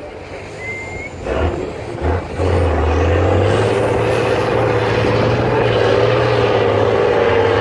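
Heavy off-road trial truck's diesel engine revved up in two short blips, then held at high revs under load from about two seconds in: a loud, steady drone with a deep rumble.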